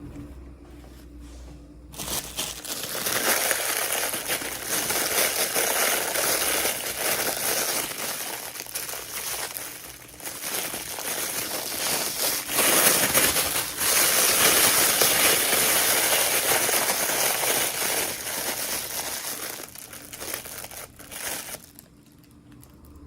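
Packaging crinkling as it is handled during an unboxing. The rustle starts about two seconds in, eases briefly partway through, and dies away near the end.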